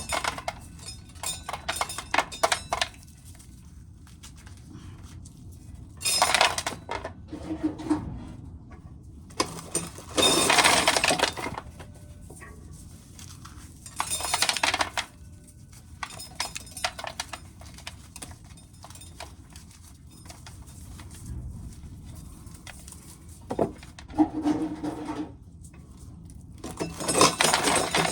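Dried corn kernels being shelled off the cob, clicking and rattling as they fall into a container, in bursts every few seconds with quieter gaps between.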